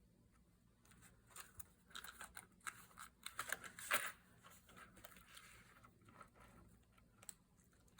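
Paper rustling and crinkling as small craft pieces are handled, a run of light crinkles and taps that is loudest about four seconds in.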